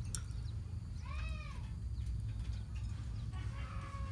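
A colony of lovebirds calling: scattered sharp chirps, one arching squawk that rises and falls about a second in, and a longer drawn-out call near the end, over a steady low hum.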